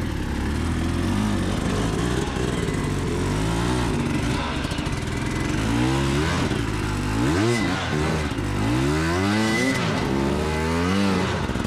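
Enduro motorcycle engine running, its revs rising and falling again and again as the throttle is opened and closed, with bigger, quicker swings in the second half.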